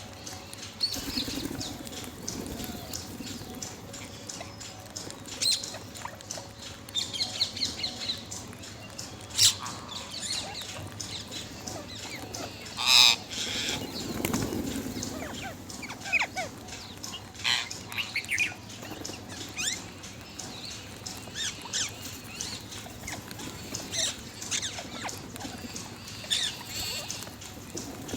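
Parrots chattering with many short, irregular squawks and chirps, and one louder call about halfway through.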